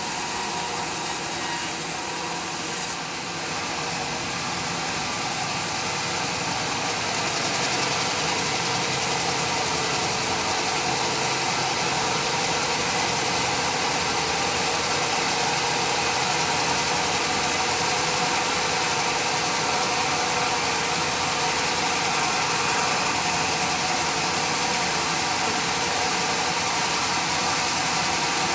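Homemade sawmill running, a steady mechanical drone and hiss, with an abrupt change in the hiss about three seconds in.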